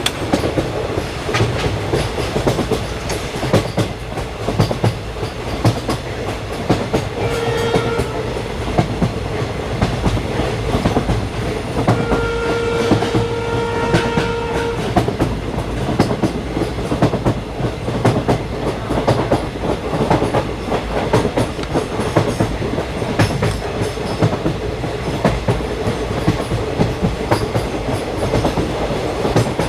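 Express train running at speed, its wheels clattering over the rail joints under a steady rumble. A train horn sounds twice: a short blast about seven seconds in and a longer blast of about three seconds around twelve seconds in.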